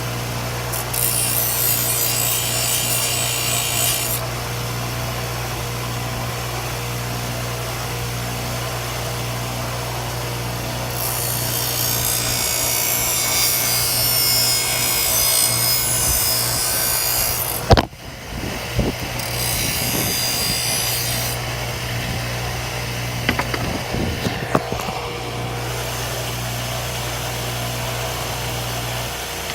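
Electric grinding tool running steadily, with the steel sickle blade pressed against it in several long grinding passes to put an edge on it. There is a sharp knock just before the middle and a few light clicks later, and the motor shuts off near the end.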